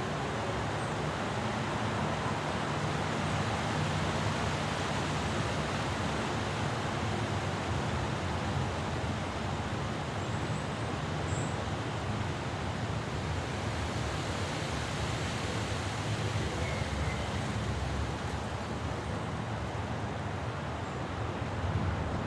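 Steady wind-and-rain noise of a thunderstorm with a low rumble underneath, and a couple of faint bird chirps about halfway through.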